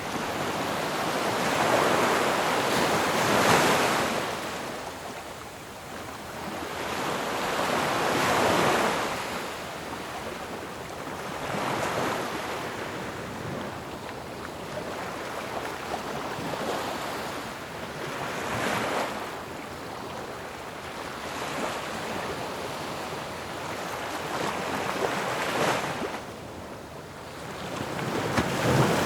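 Ocean waves breaking on a shore, a steady rush of surf that swells into a crash every four to five seconds and ebbs between.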